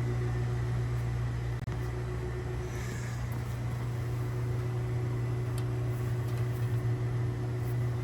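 Porsche 914's air-cooled engine idling steadily after a cold start.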